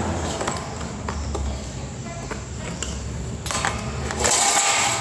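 Handling of a mixing console's opened chassis and circuit board as it is turned over: scattered clicks and light knocks, then a louder scraping, rustling noise from about three and a half seconds in until just before the end, over a steady low hum.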